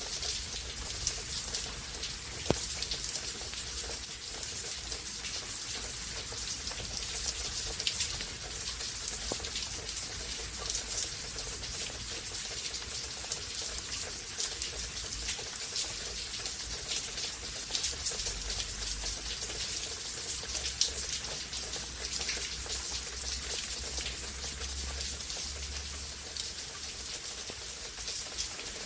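Steady rain falling, with many individual drops ticking close by over an even hiss, and one sharper tick about two and a half seconds in.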